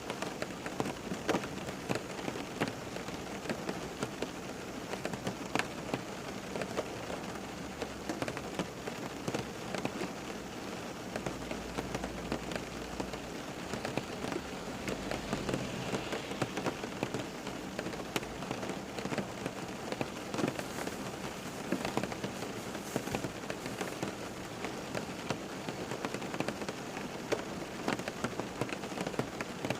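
Steady rain falling on a surface, with many individual drops pattering as close clicks over a constant hiss.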